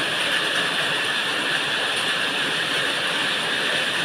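Heavy rain falling: a steady, dense hiss with no breaks.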